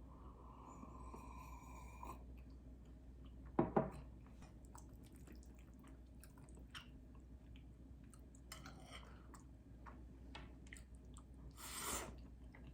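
Someone chewing food, with scattered small clicks and two louder bursts of noise, one a few seconds in and one near the end.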